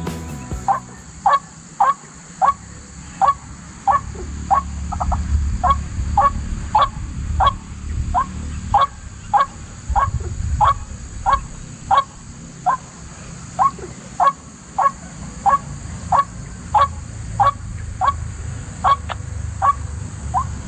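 White-breasted waterhen calling, a long run of short, harsh notes repeated evenly a little under twice a second, over a low rumble.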